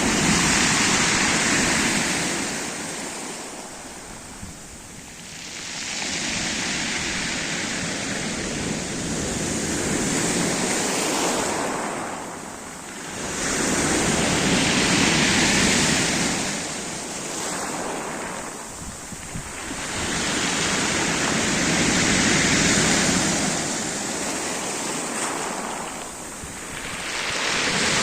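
Black Sea surf breaking and washing up the shore, swelling and falling back every several seconds.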